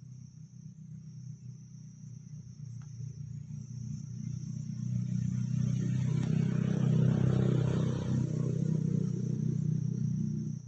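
A low motor rumble, like a vehicle engine, growing louder from about four seconds in and staying loud until it drops away at the end, over a steady high insect buzz.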